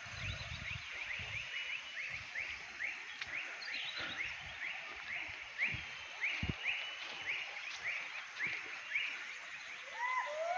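An unidentified forest animal calling over and over, each call a short upward sweep, about three a second. Near the end a second, lower-pitched arching call joins in.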